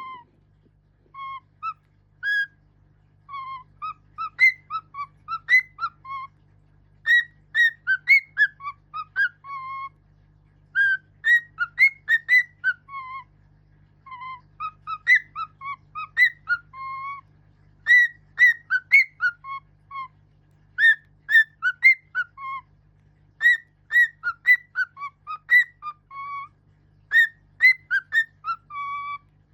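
A pet bird whistling a tune: phrases of quick, clear whistled notes stepping up and down in pitch, with short pauses between the phrases.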